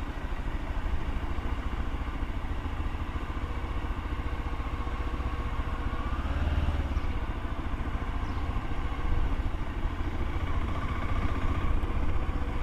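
Motorcycle engine running steadily at low speed, a low rumble with the revs rising slightly about six seconds in and again near the end.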